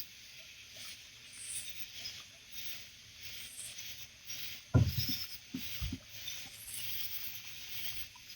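Faint night-time insect chirring over a soft hiss, with a few low knocks on the kayak about five seconds in, the first the loudest.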